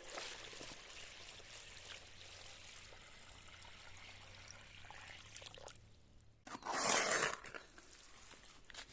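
Steady hiss like water pouring or trickling, then a louder rush of about a second about six and a half seconds in.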